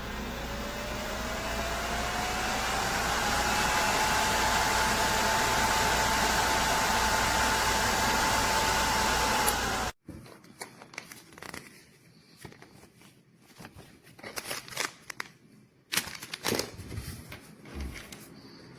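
Nail dust collector's suction fan running, a steady rush of air with a whine that rises in pitch over the first few seconds and then holds. It cuts off abruptly about ten seconds in, followed by scattered light clicks and crinkling handling sounds.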